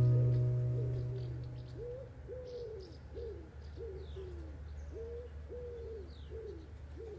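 Acoustic guitar music fading out over the first couple of seconds, leaving a bird's low cooing calls repeating about twice a second, with faint high chirps from other birds.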